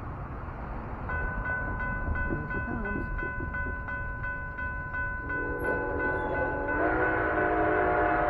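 Locomotive bell ringing steadily, joined about five seconds in by a train's chime whistle, a chord of several steady tones that grows louder near the end.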